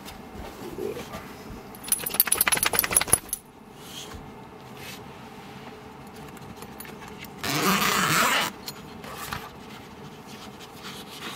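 A burst of rapid metallic jangling, like keys or tags shaking, lasting about a second and a half from about two seconds in, then a short loud rushing noise near eight seconds.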